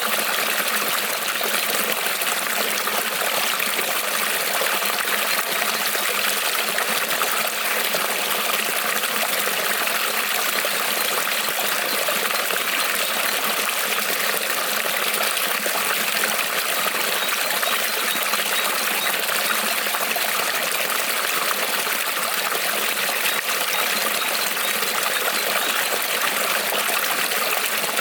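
Shallow creek rippling and trickling over stones, a steady, even rush of running water.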